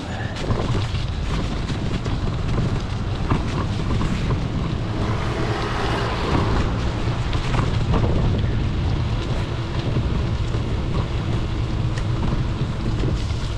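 Wind buffeting the microphone of a bike-mounted camera while cycling, a steady low rumble mixed with the rattle and tyre noise of the bike riding over snowy streets.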